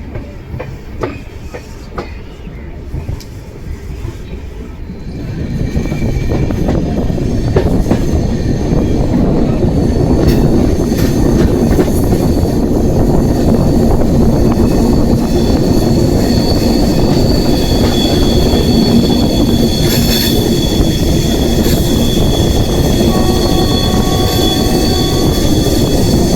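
Train running on the rails. A few sharp clicks come first, then about five seconds in a loud, steady rumble sets in, with thin, steady high wheel-squeal tones over it.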